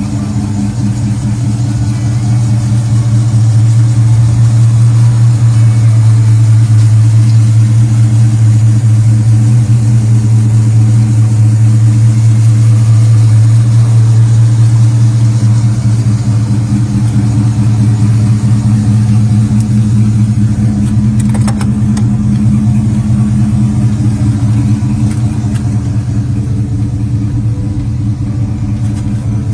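Classic car's engine idling steadily with a low, even running note, getting a little louder a few seconds in and easing slightly after the midpoint.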